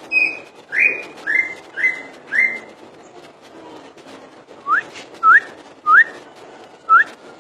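Cucak ijo (green leafbird) singing in full voice: five loud short whistles in a quick series, then, about halfway through, four sharp rising whistled notes spaced well apart.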